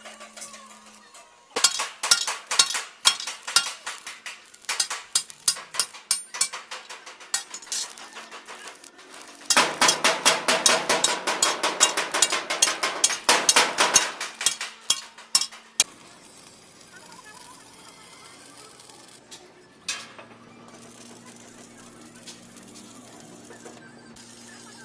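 Metal being struck repeatedly in a workshop: separate ringing blows a few a second, then a fast run of rapid strikes for about four seconds, dying out about two-thirds of the way through into a low steady hum.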